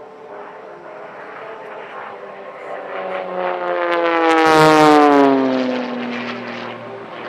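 Extra 330SC aerobatic plane's engine and propeller on a fast fly-past: the buzz grows to its loudest about four and a half seconds in, its pitch falling steadily as the plane goes by, then fades.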